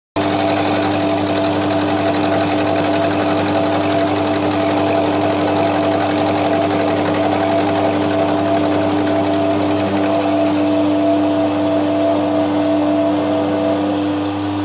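Milling machine running steadily while cutting along the edge of a cast iron bandsaw table to straighten and true it. A steady pitched hum with a higher tone that drops away near the end.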